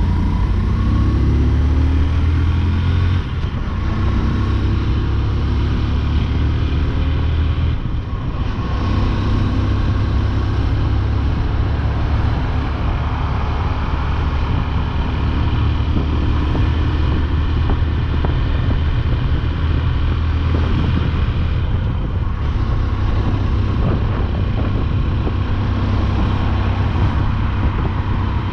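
Motorcycle engine running at road speed with wind and road noise, its pitch rising in the first few seconds as it accelerates. The sound dips briefly about three seconds in and again about eight seconds in, then runs on steadily.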